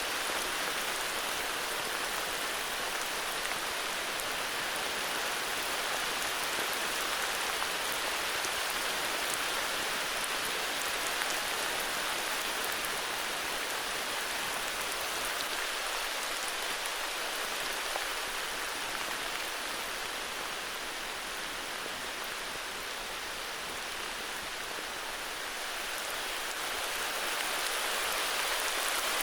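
Heavy rain falling steadily, an even hiss of drops with a few louder single drops standing out, easing slightly for a few seconds past the middle before picking up again.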